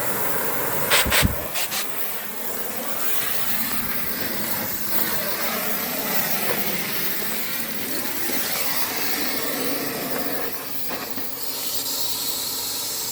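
Oxy-fuel cutting torch hissing steadily as it cuts, with a couple of sharp pops about a second in.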